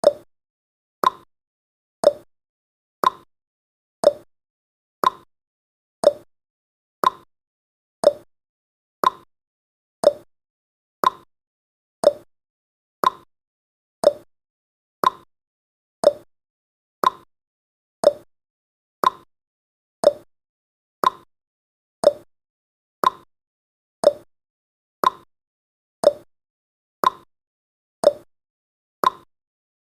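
Countdown timer's ticking sound effect: a short click once a second, steady and even, alternating between a higher and a lower pitch like a clock's tick-tock.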